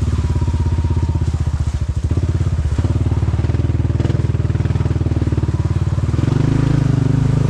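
Quad bike (ATV) engine running under way, a steady rapid beat of firing pulses. Its note changes about six seconds in, as the throttle or gear changes.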